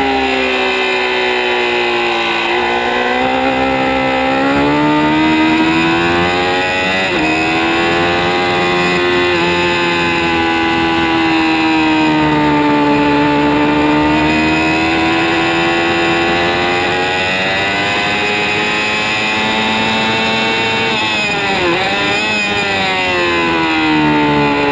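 2006 Kawasaki ZX-6R's inline-four engine running at high revs under hard riding. The pitch rises and falls as the bike accelerates and slows, with quick breaks about seven seconds in and again around twenty-two seconds, where the gears change.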